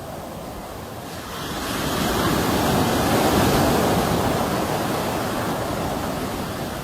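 Sea waves breaking on a shore: the surf swells about a second in, peaks a few seconds later, and slowly washes back out.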